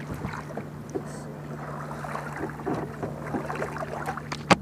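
Handling noises aboard a fishing kayak over a steady low hum, ending in a sharp knock near the end.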